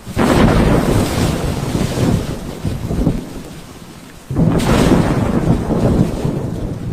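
Thunderstorm: two sudden loud rumbling bursts about four seconds apart, each fading slowly, over the hiss of rain.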